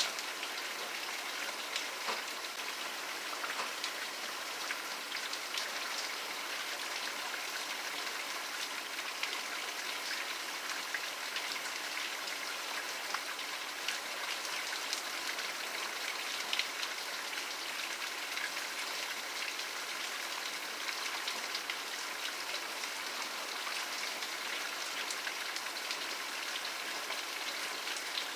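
Steady rain, with many individual drops ticking on a surface over an even hiss.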